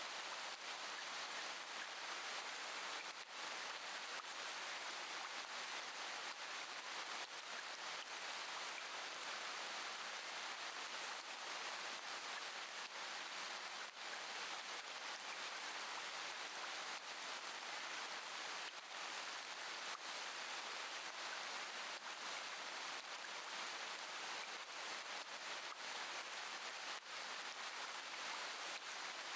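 Steady rain falling, an even hiss with a few faint, sharper drop ticks here and there.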